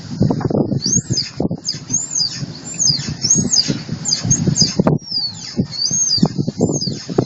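Mitsubishi L200's rear driveshaft squeaking: short, high, chirp-like squeaks repeating about twice a second over a low rumble from the moving truck. The owner describes it as metal rubbing on rubber, tied to driveshaft rotation with one loud and one quieter squeak per turn. It persists after the cross joints were greased, and he suspects it comes from near the rear axle.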